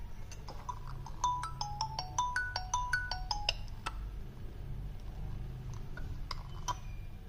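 Redmi 8 smartphone ringtone playing through its loudspeaker: a quick melody of short notes from about a second in, thinning to a few scattered notes and clicks in the second half. The loudspeaker is faulty; at times its sound fades or crackles.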